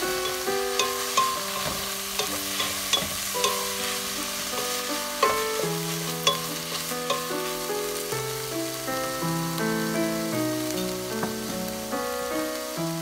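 Chopped pork sizzling in a hot frying pan as soy sauce is poured over it, a steady frying hiss with scattered sharp crackles and pops, mostly in the first half. Background music of sustained notes plays over it.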